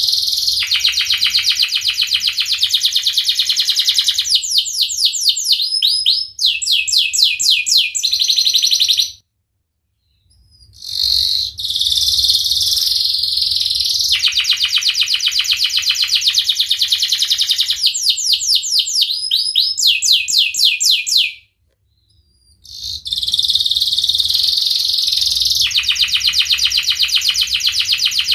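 Domestic canary singing long, full-voiced phrases: very fast rolling trills that give way to slower, sweeping repeated notes. The song breaks off twice into a second or so of silence, about a third of the way in and again about three quarters in.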